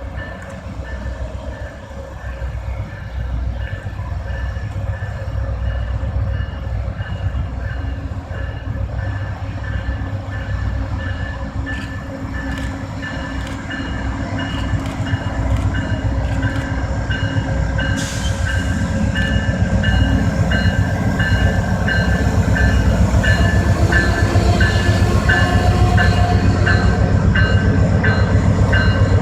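Amtrak passenger train's diesel locomotive running, its rumble growing louder, with a bell ringing at a steady beat that grows plainer through the second half.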